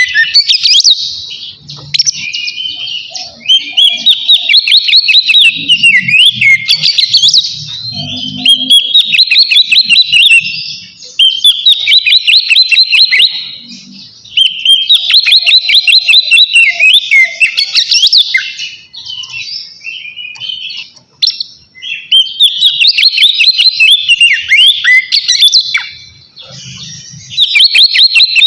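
Oriental magpie-robin singing a loud, varied song of rapid whistled trills and notes, delivered in phrases several seconds long with brief pauses between them. This is its full, open song, the kind used to call out rival males.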